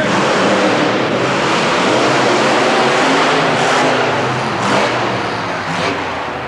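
Monster truck engines running hard, a loud, dense wall of engine noise, with three sharper noises in the second half.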